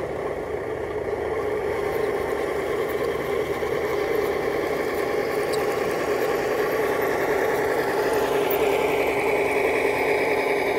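Electric motor and gearing of a radio-controlled scale truck running steadily, with a whine that climbs in pitch about eight seconds in as it speeds up.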